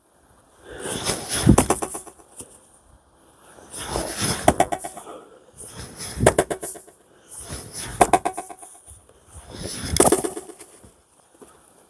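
Fiskars XXL splitting axe striking a knotty pine log, five heavy blows about two seconds apart. Each blow is followed by a strong, fluttering echo.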